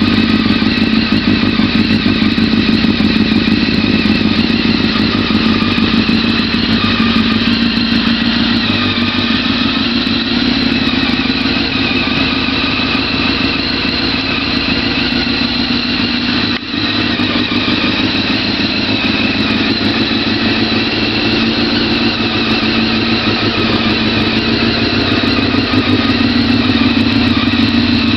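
Honda CBR900RR Fireblade's inline-four engine running steadily through its exhaust, the pitch staying nearly constant, with a momentary dip in the sound about two-thirds of the way through.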